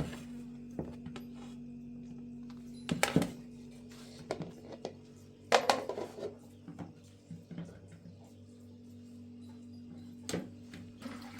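Pots and dishes knocking and clattering a few times, about three seconds in, again around five and a half seconds, and once more near the end, over a steady low hum.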